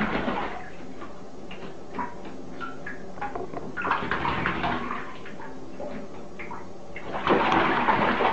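A pet bird splashing in shallow water in a bathtub, in two loud bursts: one about four seconds in and another near the end.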